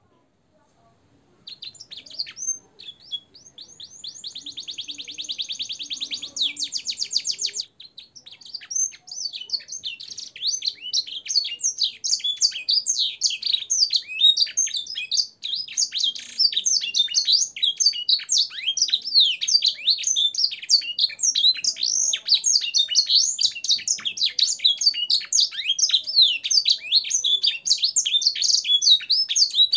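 Domestic canary singing, its song filled with phrases copied from blackthroat and sanger songs. It starts about a second and a half in, runs a fast, even trill for a few seconds, pauses briefly, then sings a long, rapid, varied run of high notes without a break.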